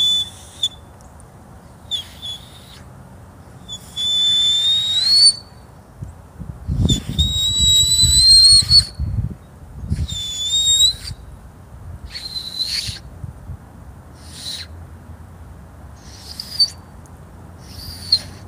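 Motorcycle engine revved in about nine short bursts, each a high, thin whine that rises in pitch before dropping off. A low rumble comes in about a third of the way through.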